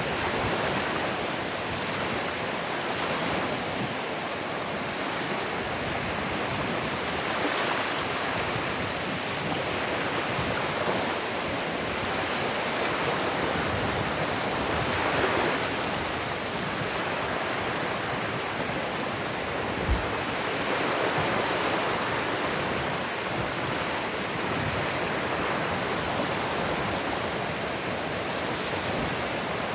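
Small ocean waves washing onto a sandy beach: a steady wash of surf that swells every several seconds. There is a brief low thump about two-thirds of the way through.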